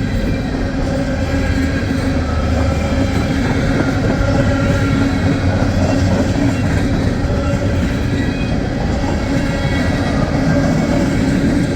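Empty coal hopper cars of a long freight train rolling past at low speed: steady wheel-on-rail rumble and clatter of wheels over rail joints, with faint high wheel squeal on the rails.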